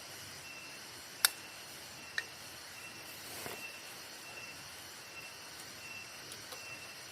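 Quiet forest ambience of insects: a steady high hiss with a short high chirp repeating every half second or so. A single sharp click about a second in and a smaller one about a second later.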